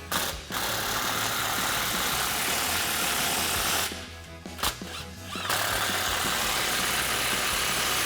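Power tool tightening the nuts on two exhaust clamps, running in two long steady bursts of about three seconds each with a short pause between.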